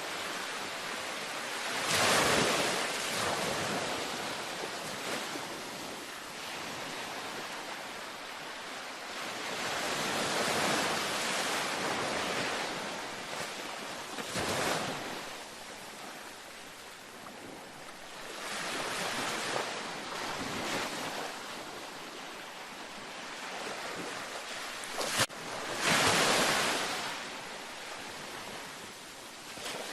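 Gentle ocean waves washing onto a beach, a soft hiss that swells and falls as each wave breaks every few seconds. A single sharp click comes about 25 seconds in.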